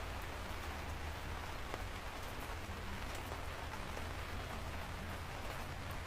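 Steady rain falling, a continuous even hiss with a few faint drop ticks, over a constant low rumble.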